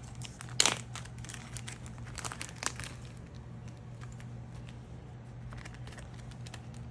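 Crinkling of plastic packaging as rubber-leg material is handled at a fly-tying bench, with a few sharp clicks in the first three seconds and lighter ticks after, over a steady low hum.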